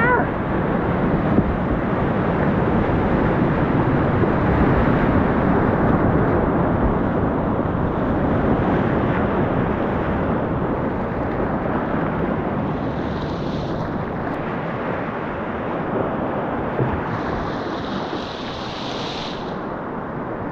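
Rushing whitewater of a mountain river, a steady dense roar that eases slowly toward the end.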